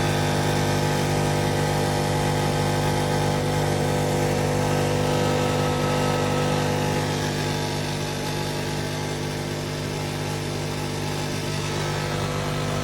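Ninja Foodi XL Pro air fryer oven running, its convection fan giving a loud, steady hum with several fixed tones.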